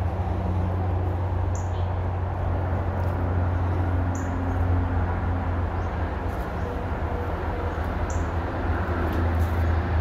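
A small bird chirping a few times, short high calls a couple of seconds apart, over a steady low hum of outdoor background noise.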